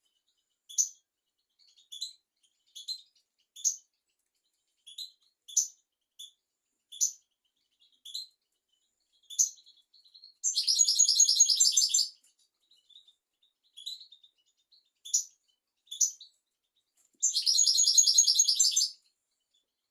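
European goldfinch singing: a string of short, separate high chirps, broken twice by a dense buzzing trill about a second and a half long, once about ten seconds in and again near the end.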